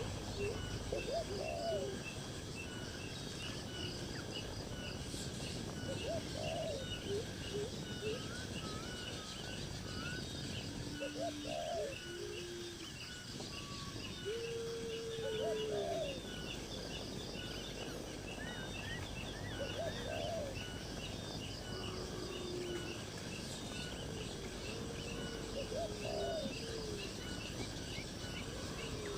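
Birds giving short, low calls, each rising and falling, every couple of seconds. Underneath runs a fast, steady chirring, likely insects, and a constant background hiss.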